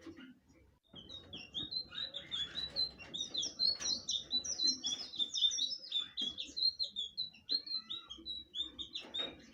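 Blue flycatcher (sikatan biru) singing a long, fast song of short sliding notes, starting about a second in.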